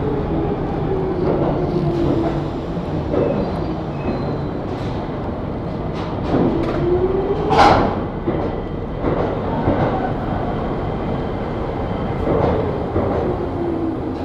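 New York City subway R62 train running on the rails: a continuous rumble with gliding tones that rise and fall in pitch. There is a brief, loud sharp burst about halfway through.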